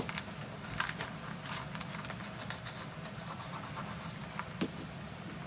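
Light scratching, rubbing and small taps as small craft bricks are handled, slid and pressed into place on a flat board while being glued down, over a faint steady hum.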